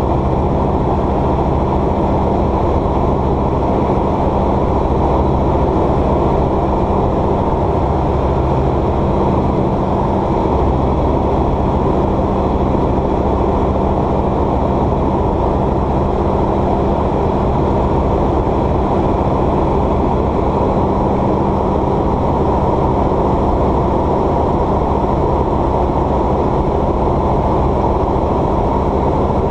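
Light aircraft's piston engine and propeller running at a steady drone, heard from inside the cockpit, with an even hum underneath.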